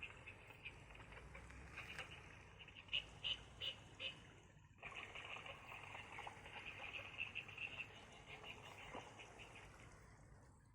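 Faint night chorus of calling animals: dense, rapid clicking trills overlapping one another. It breaks off briefly a little before halfway, resumes, and fades out near the end.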